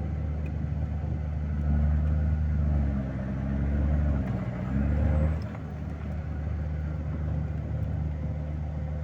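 Vehicle engine running steadily, its revs rising about two seconds in and dropping back to a steady hum after about five seconds.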